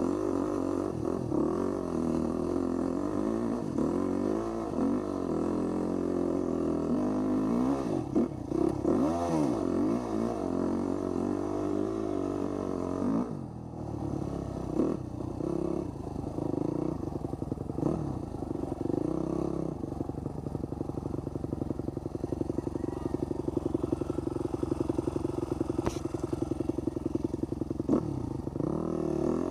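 Husqvarna 250 dirt bike engine under way, its pitch rising and falling as the throttle is worked, with a brief drop about halfway through, then running at a steadier pitch for most of the rest.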